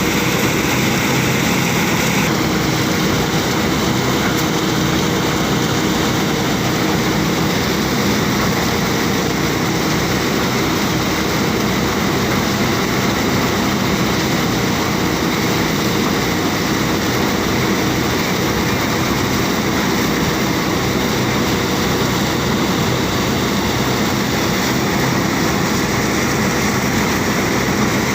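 Rice threshing machine running steadily, with a constant engine drone.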